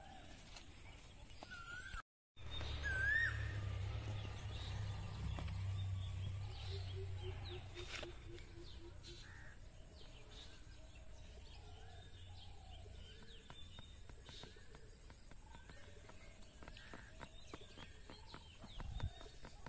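Outdoor ambience of several birds chirping and calling, with a short run of evenly spaced low notes near the middle. A low rumble sits underneath for several seconds after a brief dropout about two seconds in.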